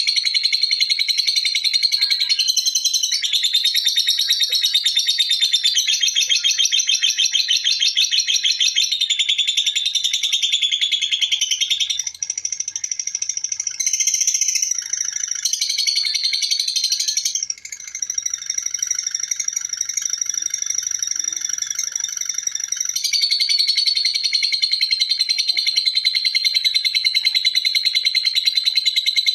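Lovebird giving a long 'ngekek': a rapid, high chattering trill that runs on almost without a break, changing its pattern a few times midway and taking up again near the end.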